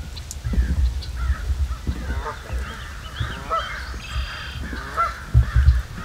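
Birds calling from the marsh: a run of short, pitched, honk-like calls repeating every second or so, with low rumbling bursts on the microphone about half a second in and again near the end.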